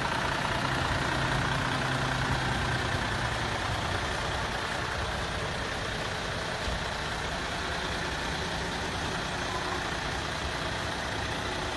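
MAN TGX 26.440 tractor unit's six-cylinder diesel engine idling steadily. Its low hum drops back a little about four seconds in.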